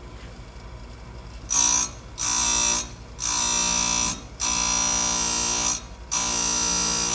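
Electric chainsaw-chain sharpener grinding the chain's teeth in short passes: five bursts of high, whining grinding, each lasting about half a second to a second and a half, with brief pauses between as the wheel is lowered onto a tooth and lifted off.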